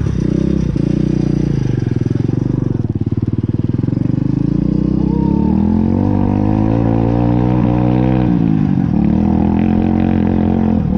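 Pit bike's small single-cylinder engine revving hard as it pulls through deep mud. The pitch climbs steadily over several seconds, drops sharply about eight seconds in, then rises again.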